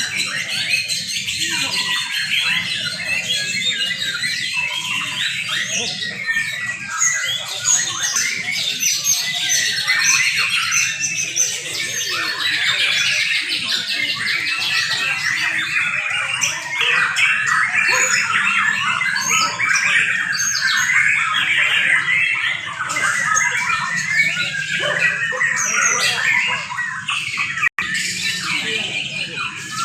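A chorus of young white-rumped shamas singing at once in competition, a dense, unbroken tangle of overlapping whistles, chirps and trills.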